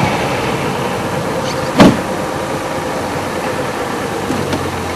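Safari game-drive vehicle's engine running steadily as it drives slowly along, with one short sharp knock about two seconds in.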